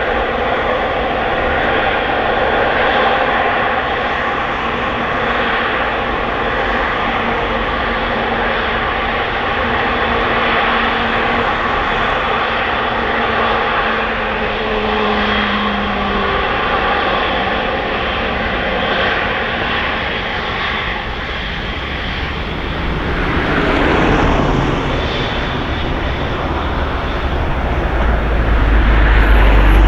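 Airliner engines running at an airport, a loud steady roar with faint steady tones through it, and a deep rumble that builds near the end.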